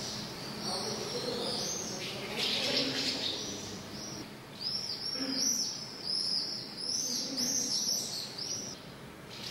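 Small birds chirping: a run of quick, arched chirps repeating two or three times a second through the second half, with denser twittering about two seconds in.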